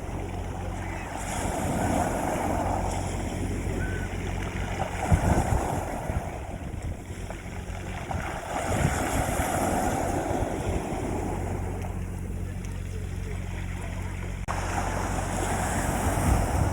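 Sea waves washing onto a beach, swelling and ebbing every few seconds, with wind buffeting the microphone. A steady low hum runs underneath.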